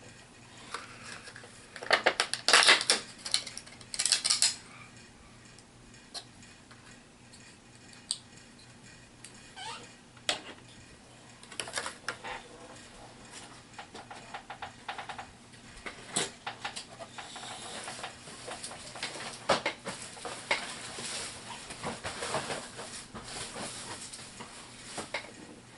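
Plastic HeroClix miniatures and booster packaging being handled: a few loud bursts of clattering and rustling in the first few seconds, then scattered light clicks and clacks of hard plastic pieces.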